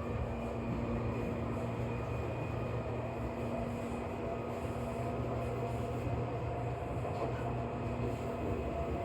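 Seibu New 2000 series electric commuter train running, heard from inside the passenger car: a steady rumble with a held hum that stops about six seconds in.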